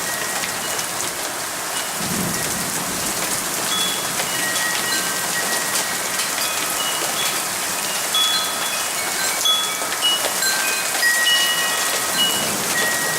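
Steady rain falling, with wind chimes ringing scattered single notes at several pitches, more often in the second half.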